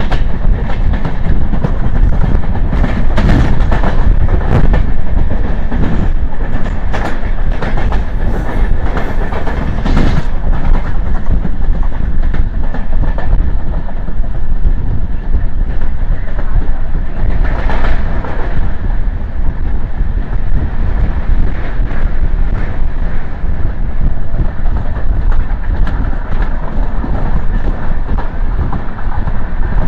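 Express passenger train running at speed, its steel wheels rumbling and clattering over rail joints, with sharper clatters through the first ten seconds or so.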